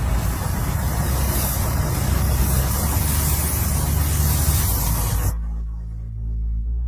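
A steady, loud spraying hiss that cuts off suddenly about five seconds in, over low steady background music.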